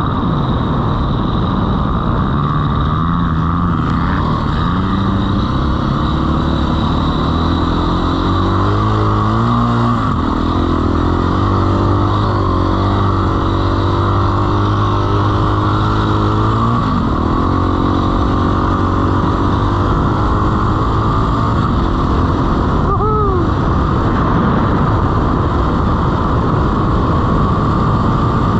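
Dirt bike engine running under a rider's throttle, its pitch rising and falling repeatedly as the revs change.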